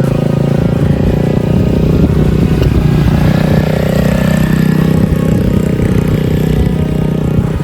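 Small mini bike engine running steadily, its pitch dipping briefly about halfway through and then picking back up.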